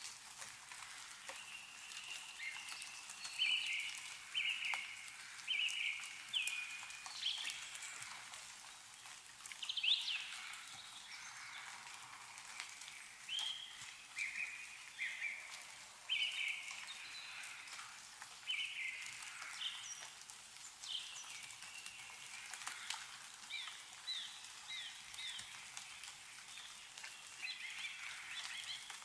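Songbirds calling in short, high, repeated notes throughout, over a soft hiss and scattered pattering drips of meltwater falling from snow-covered trees.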